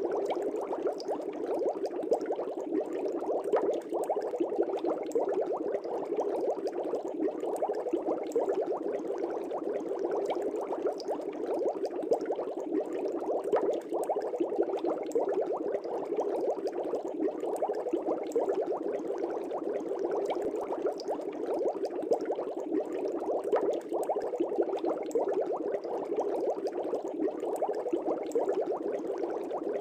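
Fish tank air bubbles rising and bursting at the water's surface, a steady dense bubbling with many small pops.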